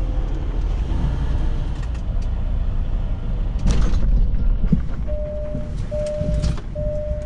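Semi-truck engine rumbling steadily, with a short burst of noise a little under four seconds in. From about five seconds in a steady mid-pitched electronic beep repeats, each beep lasting most of a second with short gaps.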